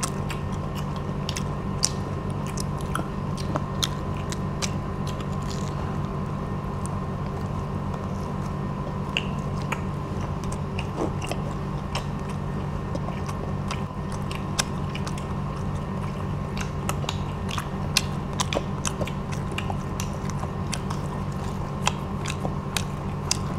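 Close-up crunching and chewing of crispy batter-fried shrimp, with many short, sharp crunches scattered irregularly over a steady background hum.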